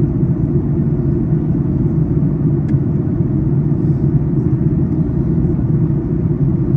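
Steady low cabin rumble of a Boeing 737 MAX 8 airliner in descent: engine and airflow noise heard from inside the passenger cabin.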